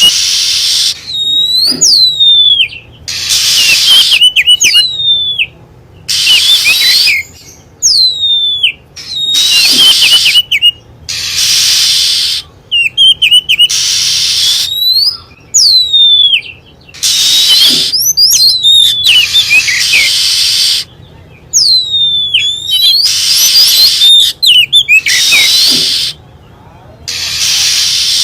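Oriental magpie-robin (kacer) lure-call recording: loud, repeated whistled phrases with sweeping glides and short trills, one every second or two, mixed with harsh, hissy notes.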